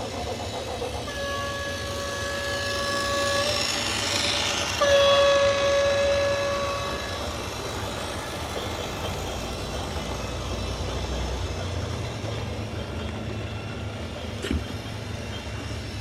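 A vehicle horn sounds two long, steady blasts of about two seconds each over a continuous low rumble. A short knock comes near the end.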